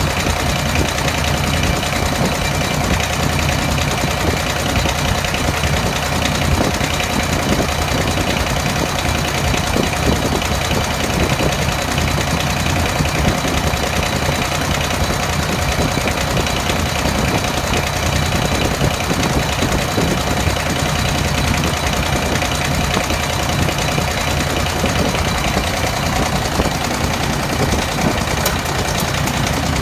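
Three-cylinder Kubota engine idling steadily with a knocking note, running rough from an injector that the owner finds misadjusted or bad.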